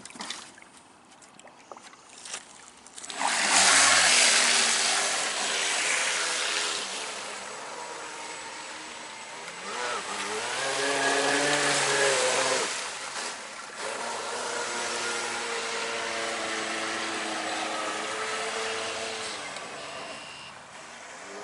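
Electric RC V-hull boat running on the river: the electric motor's whine rises and falls with the throttle over the hiss of the hull and spray on the water. It starts suddenly about three seconds in, after a few light clicks.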